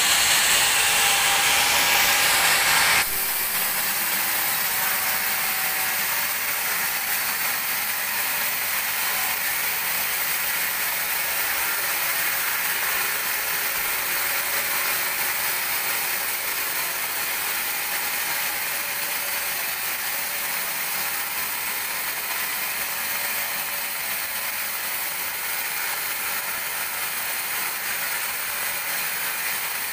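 Sawmill band saw cutting through a teak log, a dense steady rasping buzz of the blade in the wood. It is louder and harsher for about the first three seconds, then drops suddenly to a steadier, somewhat quieter run.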